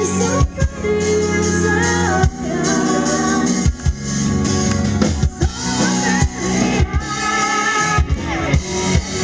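Live pop-rock band playing, with a singer over a steady beat.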